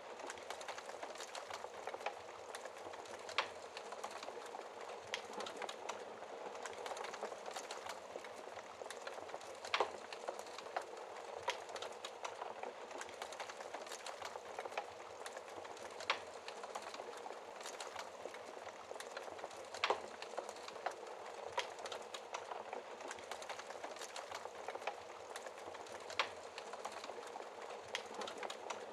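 Wood fire burning in a fireplace: a steady hiss with constant small crackles and a sharper pop every few seconds.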